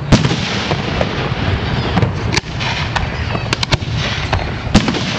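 Aerial fireworks shells bursting: a loud bang just after the start, then several more sharp reports over the next few seconds, two of them close together near the middle.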